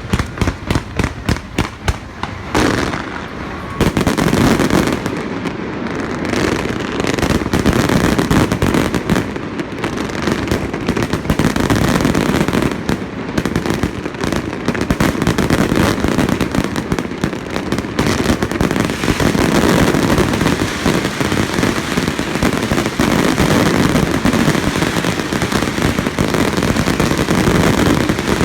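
Fireworks display: a rapid string of separate bangs, then from about four seconds in a dense, continuous barrage of bursts and crackling.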